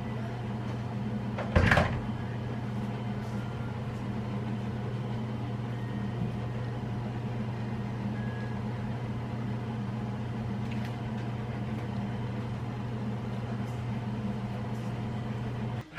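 Steady electric hum of a running kitchen appliance, with one loud clunk about two seconds in; the hum stops abruptly near the end.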